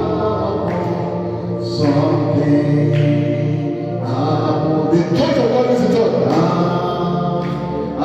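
Voices singing a gospel worship song together over sustained instrumental backing with steady low notes.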